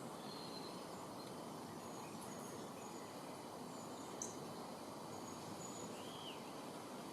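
Steady outdoor background hiss with faint, scattered high bird chirps, one sharper chirp about four seconds in and a short arched chirp near the end.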